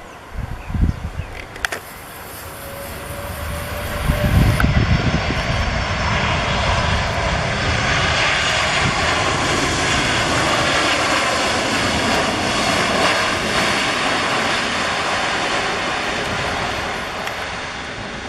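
Airbus A330 twin-engine jet airliner passing on its landing. The engine noise swells over the first few seconds, stays loud with a faint falling whine, then fades away near the end.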